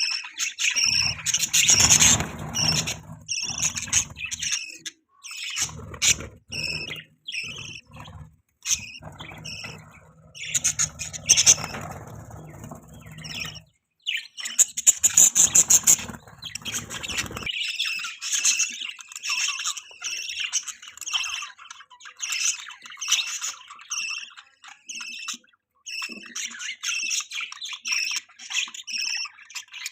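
Budgerigars chattering in rapid, high chirps and warbles. A low rumbling noise runs underneath for the first half, then stops, leaving the chirping alone.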